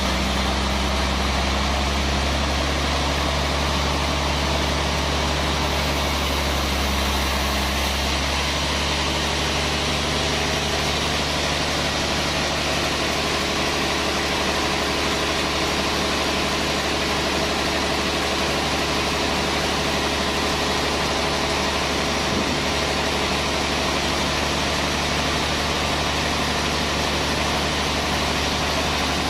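Sawmill machinery running steadily, a constant hum with several held tones. The deepest tone drops away about eight seconds in.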